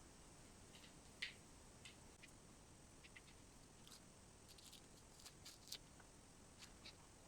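Near silence over a faint hiss, with a dozen or so faint, short clicks and ticks at irregular moments, the clearest about a second in.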